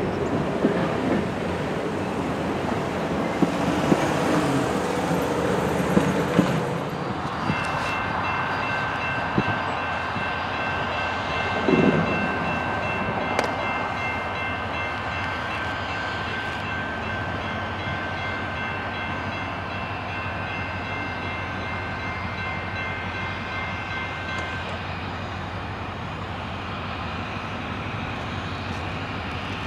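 A CSX freight train rumbling past with sharp wheel clicks for the first several seconds. After that, a steady locomotive horn chord is held for about seventeen seconds, then stops.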